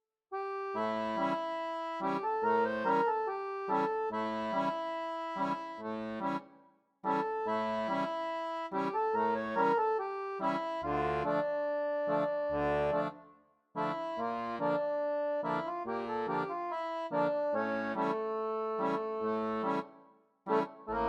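Background music: an accordion tune played in phrases, with brief pauses between them.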